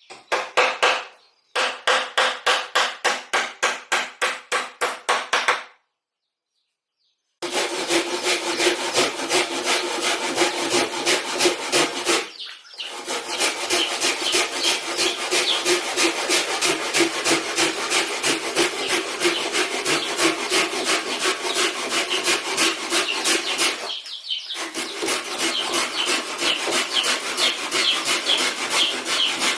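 Hand saw cutting through wood in quick, even back-and-forth strokes, about four a second. It stops dead once, briefly, about six seconds in, and pauses for a moment twice later on.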